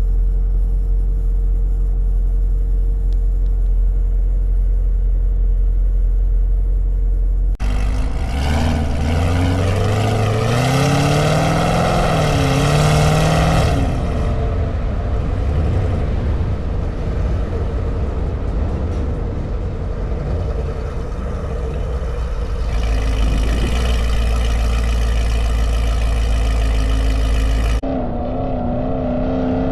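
Chevrolet Camaro engine running while driving: a steady low drone, then from about eight seconds in the engine note climbs steadily in pitch as the car accelerates for several seconds. It settles to a steady cruise and climbs in pitch again near the end.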